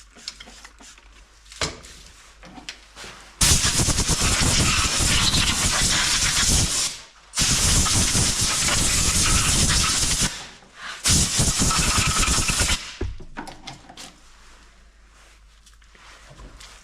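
Compressed air hissing in three long blasts, each lasting two to four seconds with short breaks between, as the freshly washed engine parts are blown off.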